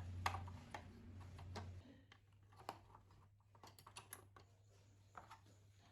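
Faint scattered clicks and taps, with a low hum in the first two seconds.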